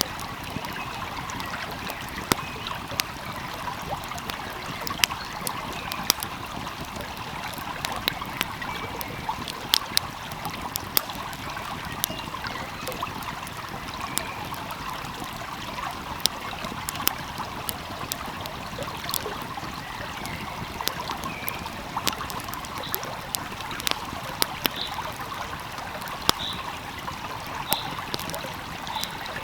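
Steady rush and trickle of a flowing stream, with the irregular sharp pops and crackles of a burning wood fire scattered throughout.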